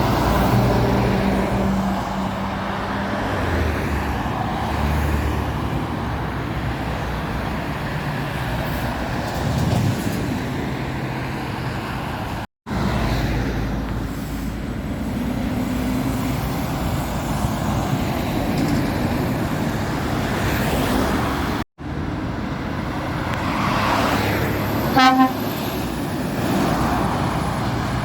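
Heavy trucks and other traffic passing on a main road: steady engine and tyre noise, broken off twice by brief cuts. Near the end comes one short horn toot.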